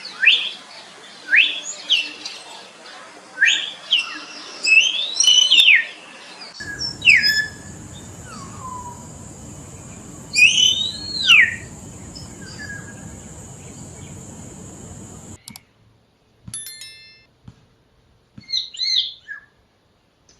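Common hill myna giving loud whistled calls, each a sharp sweep up or down in pitch, repeated about once a second, with a steady high hiss behind them in the middle stretch. Near the end come a few softer, shorter calls.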